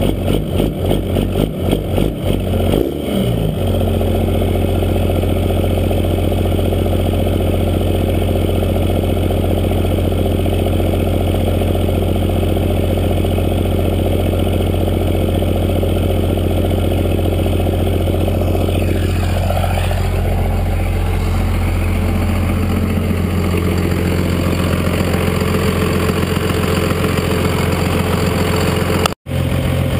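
Cummins diesel truck engine with a 64mm turbo and 5-inch straight-piped exhaust. It pulses unevenly for about the first three seconds, then settles into a steady idle. There is a sweeping change in the higher tones about twenty seconds in and a brief break in the sound near the end.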